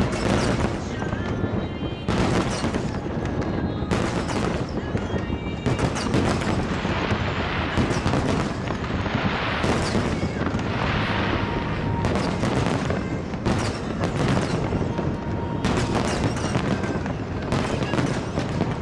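Aerial fireworks shells bursting in rapid succession, with a dense spell of crackling about seven seconds in that lasts several seconds.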